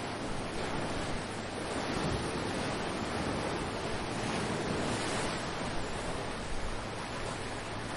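Ocean waves washing onto the shore in a steady rush of surf, swelling and easing gently, with some wind on the microphone.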